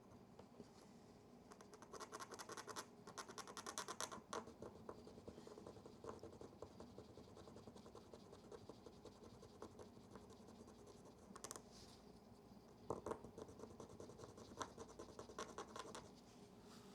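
Fast, fine scratching strokes on the oxidised metal battery contact of a Yashica Electro 35 GSN as the corrosion is scrubbed off, in two short spells, one early and one near the end.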